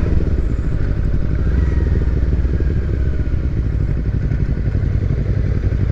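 Kawasaki Versys-X 300 motorcycle engine running with a steady low rumble.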